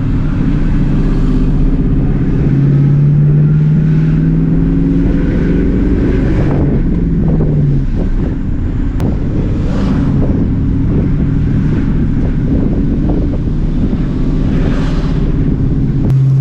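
Car engine running steadily at low revs, with a second engine note rising and then falling away about eight seconds in, among other passing noises.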